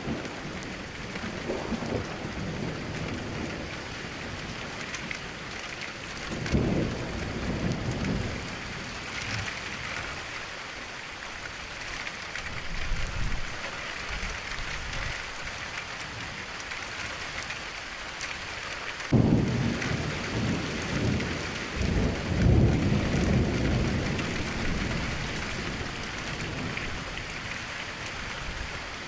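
Steady rain falling, with thunder rumbling twice: a low roll about a quarter of the way in, then a sudden crack about two-thirds through that rumbles on for several seconds.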